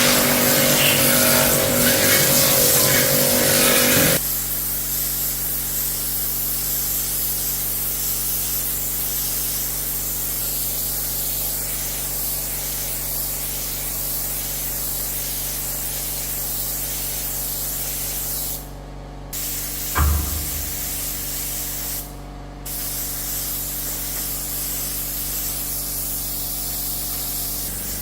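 Compressed-air spray gun spraying in a steady hiss, cutting off twice briefly past the middle, with a single thump between the two pauses. For the first four seconds a louder machine sound with steady tones comes before it, ending abruptly.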